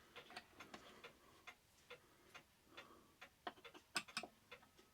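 Faint, steady ticking of a mechanical clock, with a couple of sharper clicks about four seconds in.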